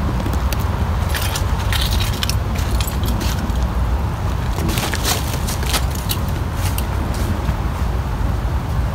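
Toyota Camry 2.2L four-cylinder (5S-FE) engine idling steadily on its first start after a timing belt replacement, with a few light ticks over the even low rumble.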